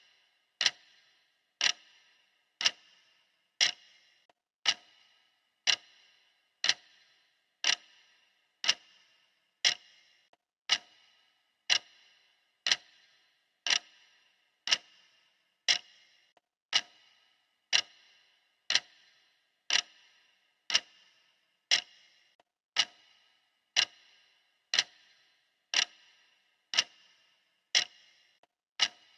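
Clock ticking steadily, one crisp tick about every second, each with a short bright ring.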